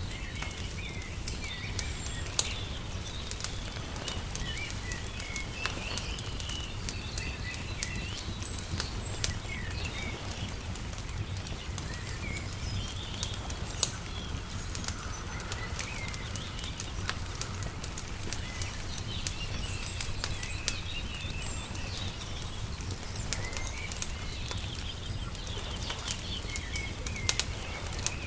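Wood fire crackling with scattered sharp pops, over a steady low rumble, while small birds chirp and twitter in short runs throughout.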